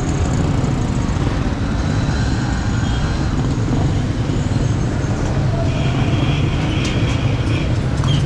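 Street traffic noise: a steady rumble of vehicle engines, with a few short higher-pitched tones about two-thirds of the way through.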